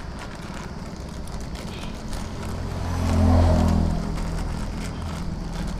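A motor vehicle's engine running and passing by, rising to its loudest about three seconds in and then fading, over a steady low hum, with a few light clicks of handling.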